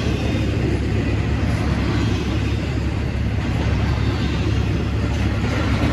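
Freight train rumbling steadily, a loud, even low rumble with no distinct clanks or horn.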